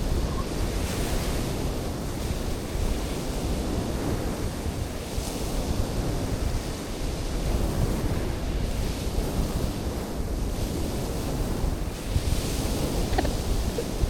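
Sea waves breaking and washing in, swelling and easing every few seconds, with wind buffeting the microphone.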